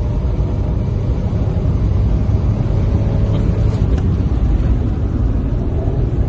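Car engine running with a steady low rumble, with a single faint tick about four seconds in.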